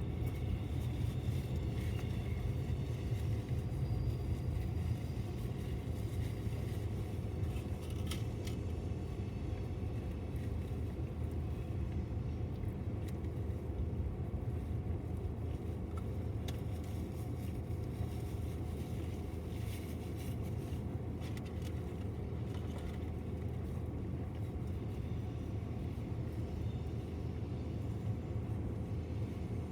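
BNSF intermodal freight train rolling past, its wheels on the rails making a steady low rumble. There are faint high squeals in the first few seconds and a few sharp clicks about eight seconds in.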